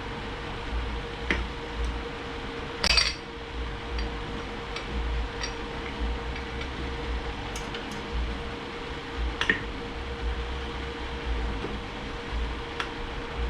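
Scattered clinks and clanks of metal transmission parts and hand tools being handled on a workbench, the loudest a short clatter about 3 s in, over a steady hum.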